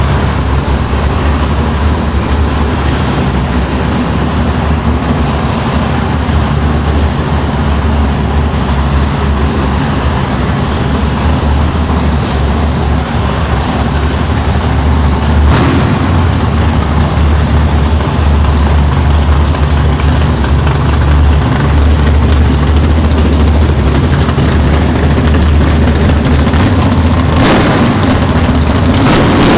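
A car engine running at a loud, steady idle with a deep low note. Two brief sharper sounds break in, one about halfway through and one near the end.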